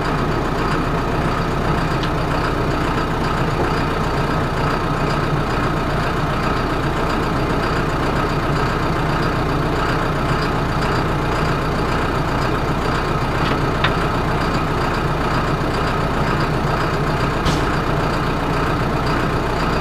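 John Deere tractor's diesel engine idling steadily, an even, unchanging drone with no revving.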